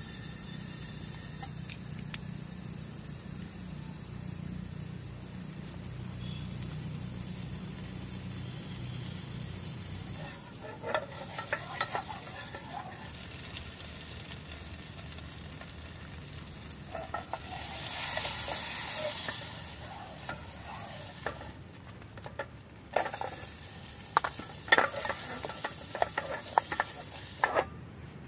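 Sliced onions frying in a camping pot on a portable gas stove, with a sizzle that swells about two-thirds of the way in. A wooden spatula scrapes and knocks against the pot as they are stirred, with sharp clicks near the end. A low steady hum fills roughly the first third.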